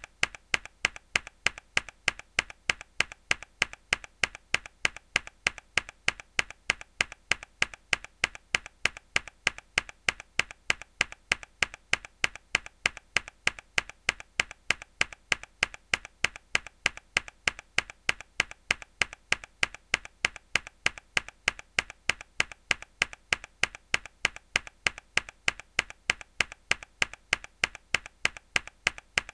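A mechanical keyboard key pressed hard, the same sharp click repeating evenly about three times a second.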